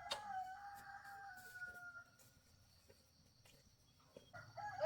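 A rooster crowing: one long, slightly falling call of about two seconds at the start, and another crow beginning near the end.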